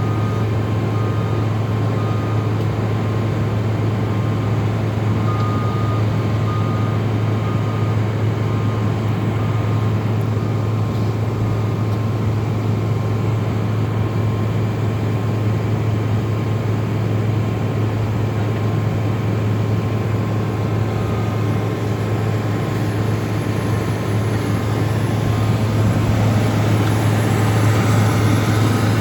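Heavy snow-plowing machines (skid steers and a wheel loader) with their engines running steadily at work. A reverse alarm beeps at about one beep a second through the first third and briefly again later. The engine noise swells near the end.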